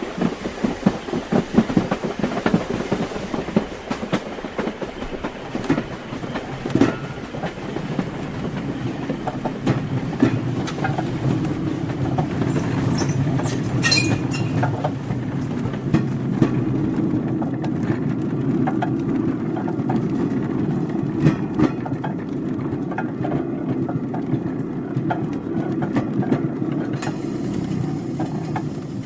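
Train wheels clicking rhythmically over rail joints, settling after several seconds into a steady low rumble of a moving carriage with scattered clicks. A brief high-pitched squeal comes about halfway through.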